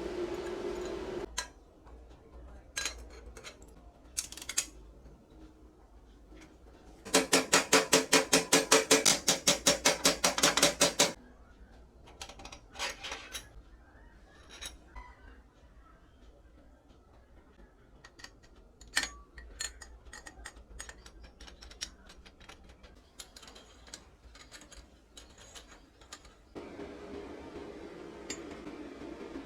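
Metal parts and hand tools clinking and knocking, with a loud run of fast, even blows, about eight a second, for some four seconds near the middle. A steady hum stops just after the start and comes back near the end.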